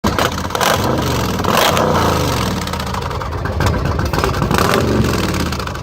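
Motorcycle engine running loudly, with its pitch rising and falling as it is revved.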